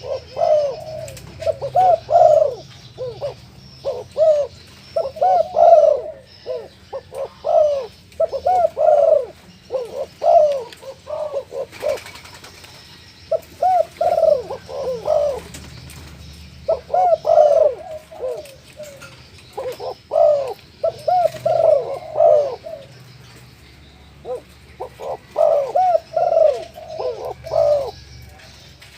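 Tame Barbary dove (puter) cooing over and over, in runs of several coos broken by short pauses of a second or two.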